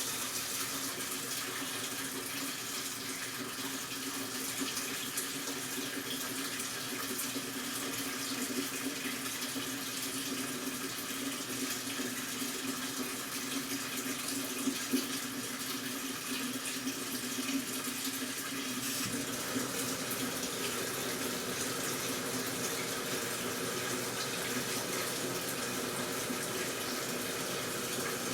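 AQUA washing machine taking in water: a steady rush of water pouring into the tub, with a low hum underneath that changes about two-thirds of the way through.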